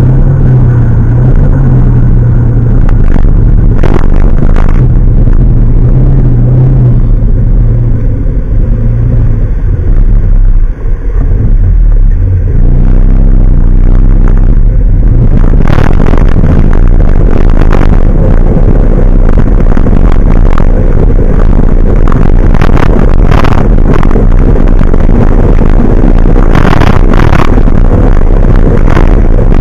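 A motor vehicle's engine running loud with road noise. The engine hum is steady for the first ten seconds, dips briefly about eleven seconds in, then gives way to heavier noise with gusty bursts.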